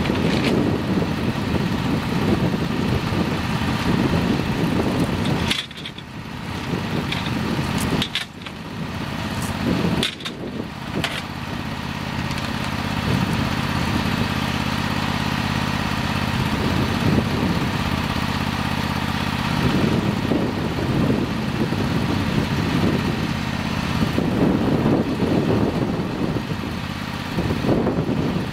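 Simplicity Legacy garden tractor engine running steadily. In the first ten seconds the sound drops away briefly three times, with a few sharp clicks.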